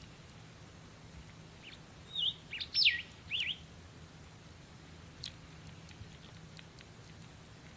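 A bird calling: a short burst of a few quick chirping notes, one sweeping sharply down in pitch, about two seconds in, with a few faint scattered ticks afterwards.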